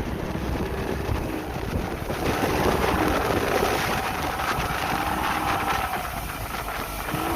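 Speedboat's outboard engine running steadily under way, with wind rushing on the microphone.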